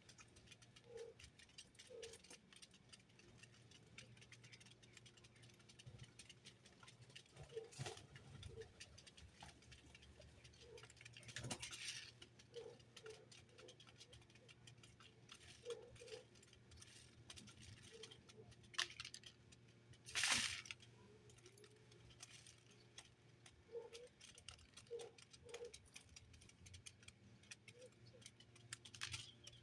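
Small birds moving and pecking about a feeder: faint, scattered clicks, taps and light rattles, with two louder brief scrapes about twelve and twenty seconds in.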